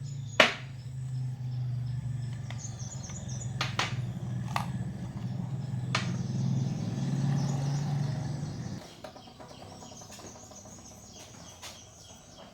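A steady low hum with a few sharp clicks, the loudest about half a second in; the hum stops about nine seconds in. Birds chirp faintly in the background.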